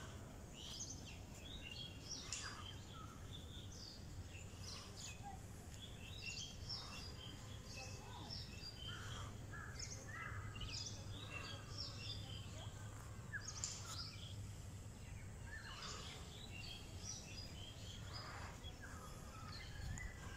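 Many small birds chirping, with short chirps and calls scattered all through, over a low steady rumble of outdoor background noise.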